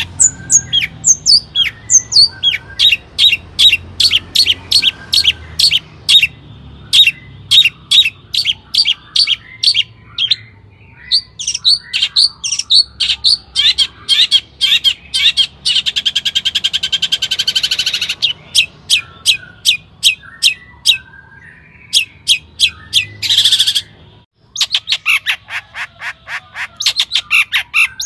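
Long-tailed shrike (cendet) singing loudly: a rapid run of short, sharp notes with a fast buzzy trill partway through, then a brief gap about three-quarters in before the quick notes start again.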